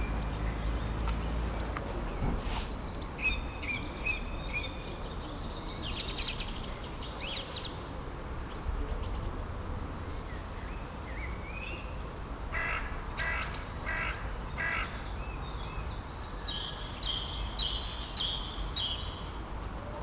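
Wild birds singing and calling, with short high chirps and trills throughout and a run of about five repeated calls, about two a second, some twelve to fifteen seconds in, over a low steady rumble.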